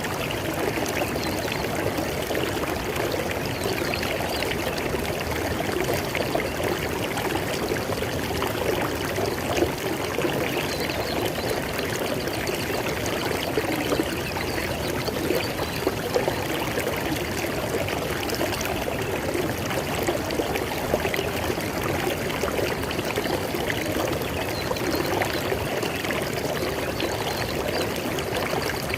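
River water flowing over rocks, a steady splashing and gurgling rush.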